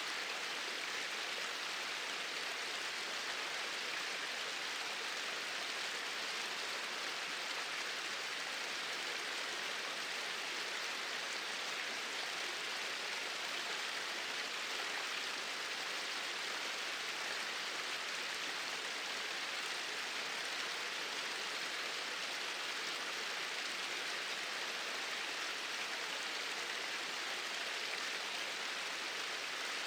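Small waterfall pouring steadily into a stream, a constant even rush of water.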